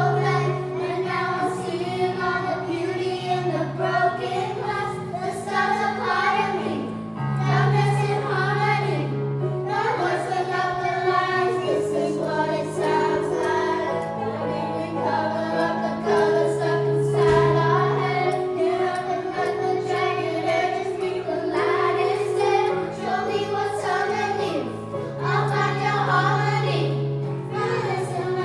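A choir singing a pop song over low held accompaniment notes that change every couple of seconds.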